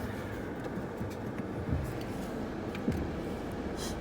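Steady hum of a car idling, with a few faint clicks.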